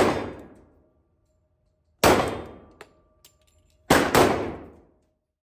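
Pistol shots echoing in an indoor shooting range: one right at the start, another about two seconds in, then two quick shots close together near the end, each followed by a long ringing decay.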